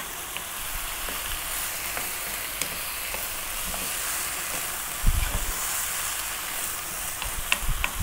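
Ground beef and vegetables sizzling steadily in a non-stick frying pan over above-medium heat while a wooden spoon stirs and scrapes through them. A low thump about five seconds in, and a few light clicks of the spoon near the end.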